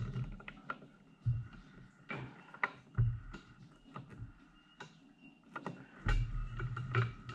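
Irregular light metallic clicks and knocks of hand work at a machine tool, with a few short dull thumps.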